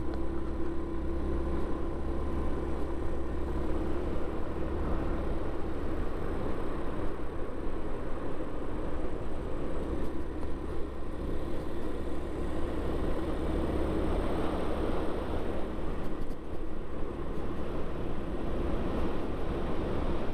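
Yamaha Vino 125 scooter's single-cylinder four-stroke engine running steadily while riding, with wind rushing past.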